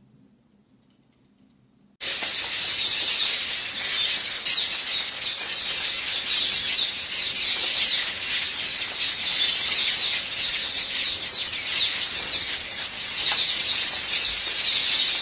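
A dense chorus of birds chirping, with many quick high calls repeating over a steady hiss; it starts suddenly about two seconds in, after near silence.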